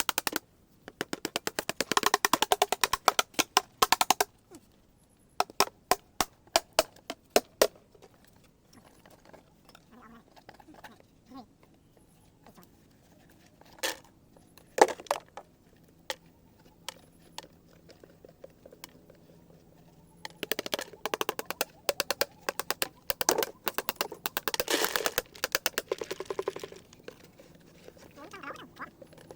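Dried seed gourd being beaten to loosen its seeds: two long runs of rapid, sharp knocks, with a few single knocks in between.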